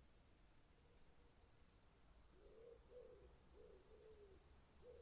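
Faint ambience of crickets chirping in an even, repeated rhythm. From about halfway, a bird's low, repeated calls join in.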